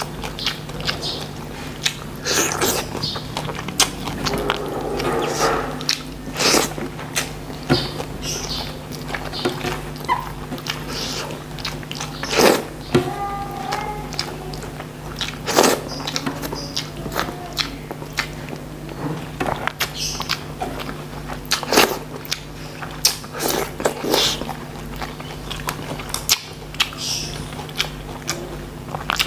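A person eating close to the microphone: biting and chewing, with many short, sharp smacking clicks at irregular moments, over a steady low hum.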